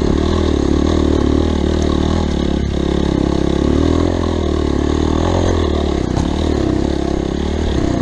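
Off-road motorcycle engine running under load on a trail, its revs rising and falling unevenly.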